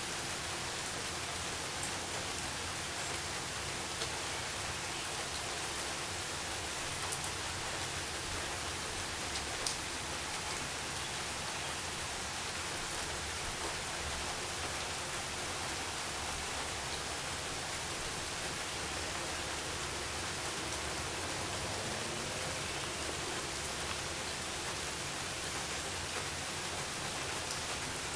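Steady rain falling on leafy trees: an even hiss with a few louder single drops ticking out of it, about seven and ten seconds in.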